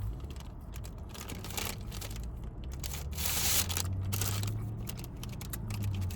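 Eating a churro: bites and chewing, with a few rustles of its paper bag, the loudest about halfway through, over a steady low hum.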